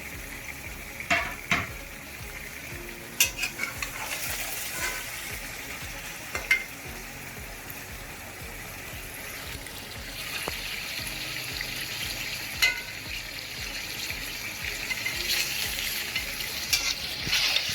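Chicken and onions frying in hot oil in a pot, a steady sizzle, stirred with a spoon that knocks sharply against the pot several times. The sizzle grows louder near the end.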